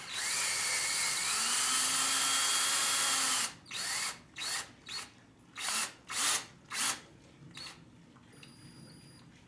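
Cordless drill driving a threaded screw in: one steady run of about three and a half seconds, its pitch climbing as it spins up, then several short bursts as the screw is snugged down.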